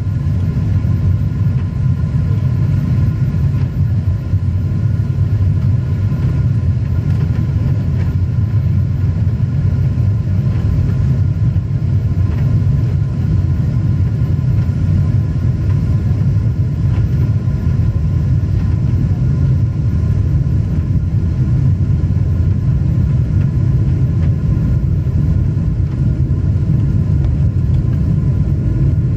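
Jet airliner cabin noise: a steady deep engine and airflow rumble with faint steady whining tones, the engines throttled back soon after takeoff for a level-off at 1,000 ft with speed held to 250 knots.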